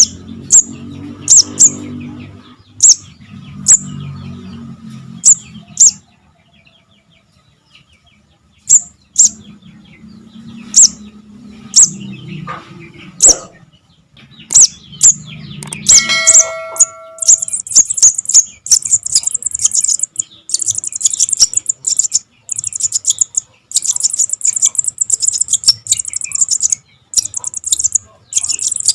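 Sogon (sogok ontong) nestlings calling: sharp, very high chirps about a second apart, turning about two-thirds of the way through into a fast, continuous chatter of begging calls. A short ringing tone sounds just before the chatter begins. This is the recording used as a lure to trap the birds.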